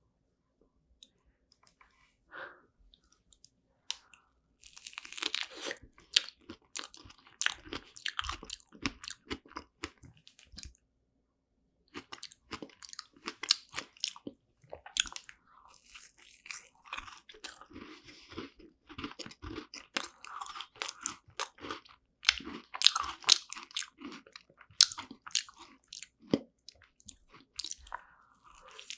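Close-miked chewing and biting of a strawberry cheese tart: crisp crunches of the pastry crust mixed with soft, wet mouth sounds. Mostly quiet for the first four seconds, then steady chewing with a short pause about eleven seconds in.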